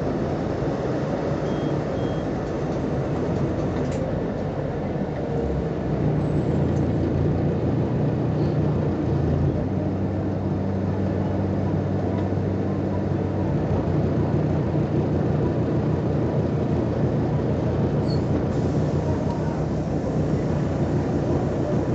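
Volkswagen Volksbus 18-280 OT LE city bus's diesel engine running under way, a steady low drone. It grows louder about six seconds in, and its pitch shifts at about ten seconds and settles back at about fourteen.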